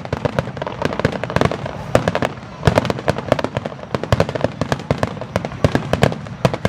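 Aerial fireworks display: a dense, rapid barrage of bursting shells and crackling reports, many per second.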